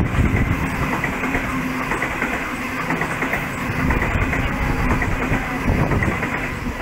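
Sydney Trains double-deck electric train running past: a steady running hum with a held tone, and wheels clacking over the rail joints.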